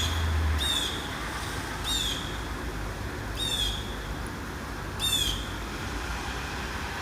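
A bird calling outdoors: five short, sharp calls at irregular spacing, heard over a steady low background hum.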